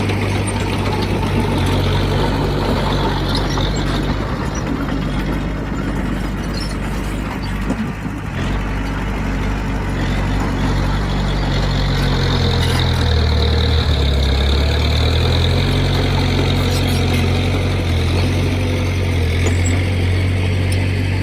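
Heavy diesel engine of earthmoving machinery running steadily under load, its pitch dipping lower for a couple of seconds a little past the middle before coming back up.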